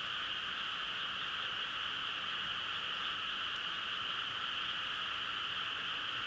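A dense chorus of many frogs calling at once, merging into one steady, unbroken sound with no pauses.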